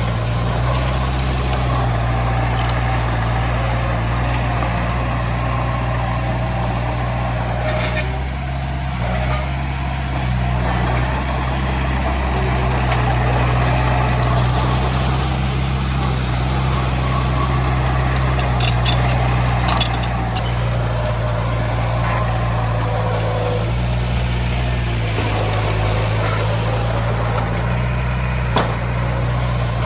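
Heavy diesel engine of earthmoving machinery running steadily under load, with a few sharp metallic clicks and knocks over it.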